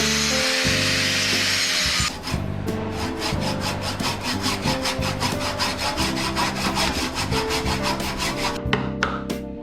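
A piece of Tindot wood trunk being cut. A continuous cutting noise runs for about two seconds, then gives way to rapid, even sawing strokes, about six a second, that fade near the end.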